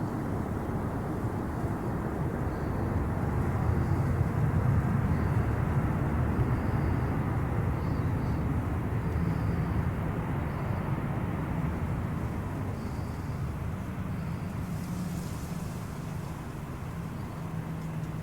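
Boeing 737 airliner's jet engines rumbling as it passes on its landing approach, swelling to a peak about four to five seconds in and then slowly fading.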